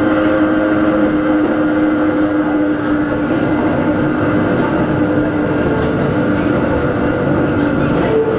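Running sound inside Hakone Tozan Railway Moha 1 No.106, an electric car with nose-suspended SE121-A traction motors on Nippon Sharyo NA7 bogies. A steady motor and gear whine sits over the continuous rumble of the wheels on the track.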